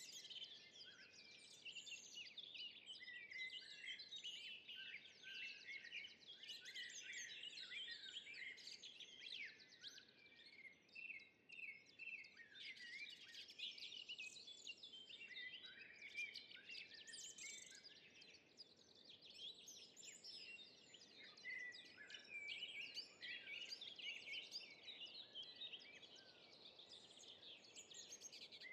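Faint forest birdsong: many small birds chirping and singing at once in a dense, overlapping chorus over a low background hiss.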